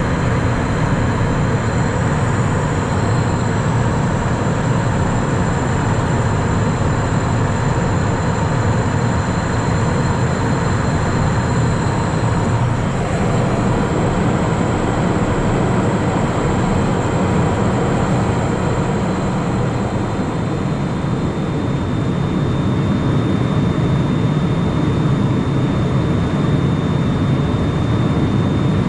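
Steady cockpit noise of a Cessna Citation Mustang, picked up by a camera microphone: a dense rush of engine and airflow noise with thin, steady high whines from its twin Pratt & Whitney PW615F turbofans.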